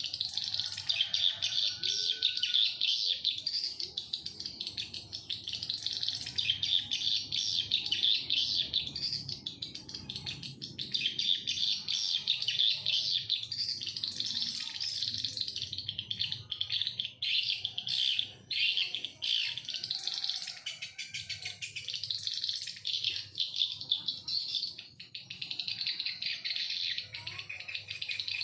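Swiftlet calls, a dense, continuous high twittering chirp, of the kind that swiftlet-house tweeter speakers play nonstop to lure the birds in.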